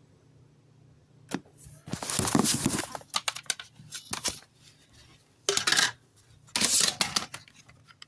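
Irregular bursts of clattering and rustling, with a short click about a second in and louder clusters near two, five and a half and seven seconds; no music.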